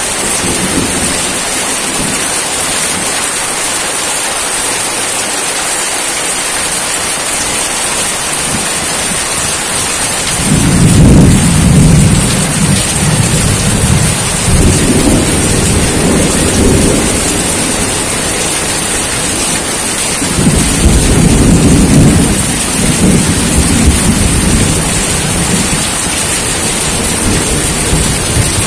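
Steady rain hissing, with two long low rolls of thunder, the first starting about ten seconds in and the second about twenty seconds in.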